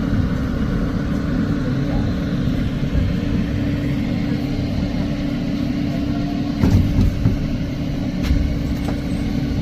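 New York City subway car rumbling along on the rails, heard from inside the car, with a steady hum under the rumble. Two sharp clanks come near the end.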